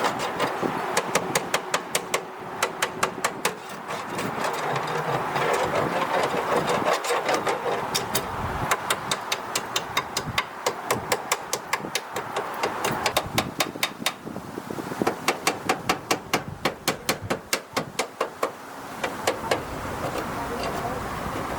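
Engine running with a rapid, steady clatter of sharp ticks over a continuous mechanical hum.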